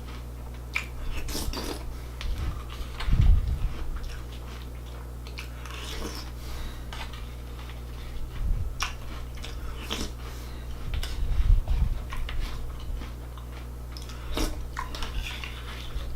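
A person chewing and crunching a mouthful of breakfast cereal close to the microphone, with irregular crunches and a couple of louder low thumps, over a steady low hum.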